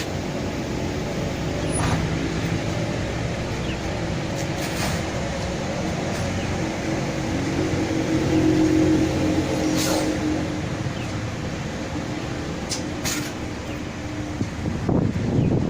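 A bus engine running amid road traffic noise, swelling louder about halfway through, with a few short sharp clicks or knocks.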